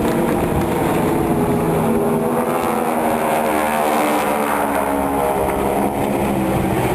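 A formation of propeller aircraft, each with a 600-horsepower nine-cylinder Pratt & Whitney radial engine, droning as they pass low overhead. The engine pitch drops through the middle as they go by.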